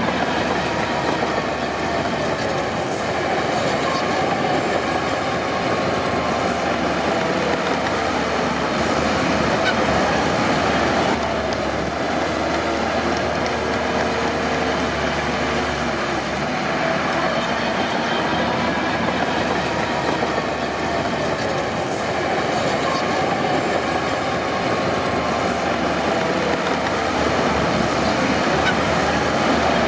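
Crawler bulldozer working, its engine running steadily while the steel tracks squeal with a wavering pitch.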